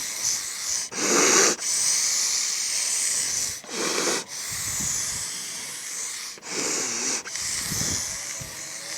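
Air blown through blow-pen airbrush markers: long hissing puffs of spray, broken by quick breaths between blows about a second in, around four seconds in, and again around six and a half seconds in.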